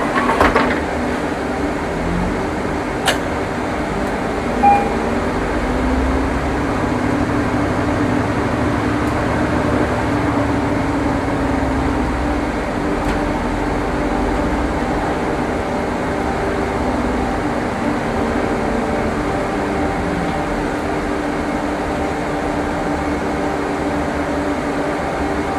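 Inside a moving city bus: the steady drone of the engine and ventilation with a low hum, a sharp click about three seconds in and a short beep soon after.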